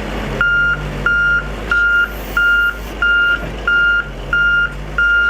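Heavy equipment's backup alarm beeping steadily, one even-pitched beep about every two-thirds of a second, as the machine reverses, over the low rumble of its diesel engine.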